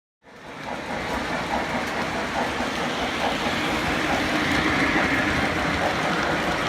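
Model train running on the layout track: a steady, dense running noise that cuts in suddenly just after the start and holds even throughout.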